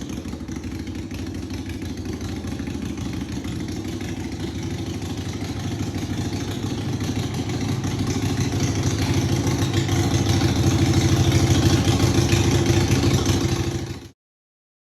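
Harley-Davidson V-twin with Vance & Hines Short Shots exhausts idling with a steady pulsing exhaust note, growing gradually louder through the second half and cutting off abruptly about fourteen seconds in.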